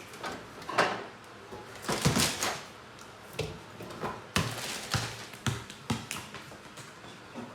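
Irregular taps, clicks and knocks of objects being handled, with a louder knock a little past the middle.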